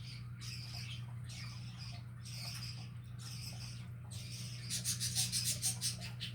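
A small pet bird calling: short scratchy chirps about once a second, then a louder, quick run of about ten chirps near the end, over a steady low hum.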